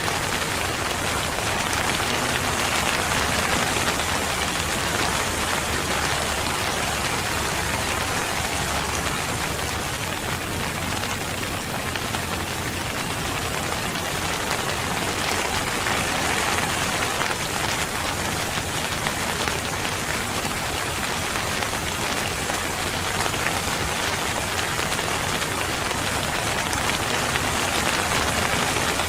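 Steady rain falling on a surface, an even hiss with many fine drop impacts and no change in strength.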